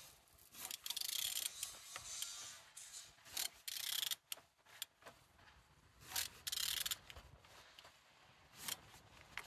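Nissan QG18DE 1.8-litre four-cylinder engine being turned over by hand: irregular scraping and rubbing strokes from the tool and the rotating engine, each a second or less, several times over. It turns freely, a sign the engine is not seized.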